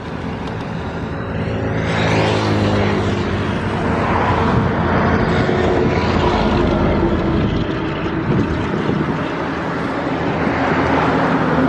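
A small engine running close by, its pitch sliding down between about one and three seconds in, then holding steady.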